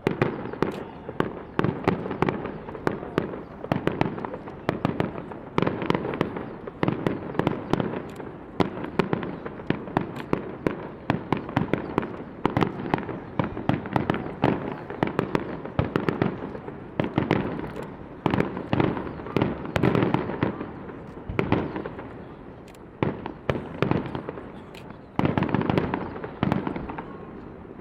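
Fireworks display: a dense barrage of shells bursting, many sharp cracks and bangs a second, starting abruptly and running on with a louder surge near the end.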